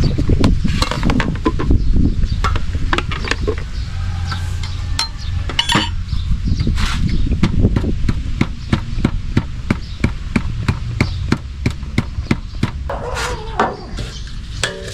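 Repeated hard knocks of a tool striking, irregular at about two or three a second, over a steady low rumble. A brief wavering tone comes in near the end.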